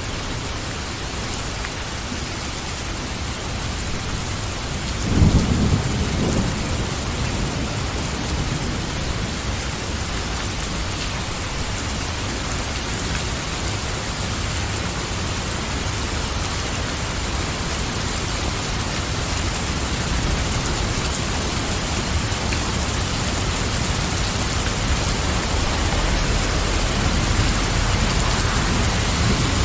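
Steady rain falling, with a sudden low clap of thunder about five seconds in and a low rumble of thunder building near the end.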